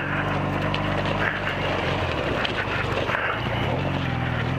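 Motorcycle engine running in low gear over rough railroad ties, with wind buffeting the microphone; its note drops about two seconds in and holds lower.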